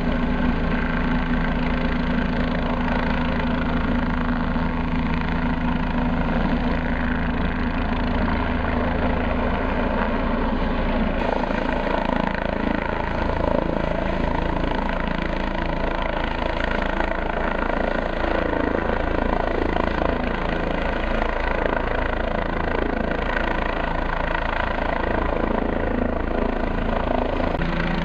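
Helicopter's rotor and engine running steadily and loud. About eleven seconds in, the sound changes and its pitch wavers up and down until near the end.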